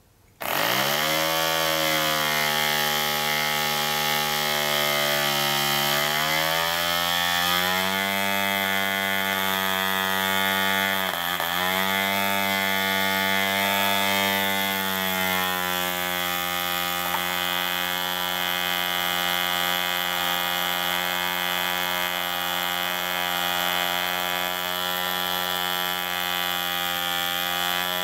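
Mills 1.3 cc model diesel engine running, cutting in suddenly about half a second in. Its pitch sags, dips twice in the first half, then settles higher and steady. The engine runs despite having passed through a combine harvester and been cleaned up.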